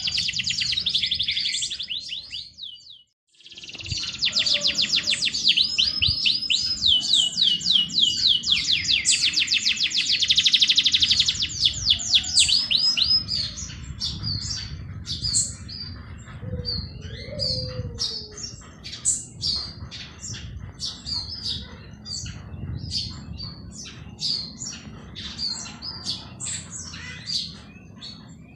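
Songbirds singing: fast trills of rapidly repeated high notes for the first dozen seconds, broken by a brief dropout about three seconds in, then scattered single chirps and short calls over a faint low rumble.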